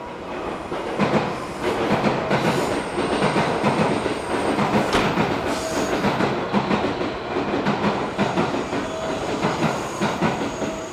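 A train rolling through the station, its wheels clattering over rail joints and points in an irregular run of knocks and clicks that starts about a second in.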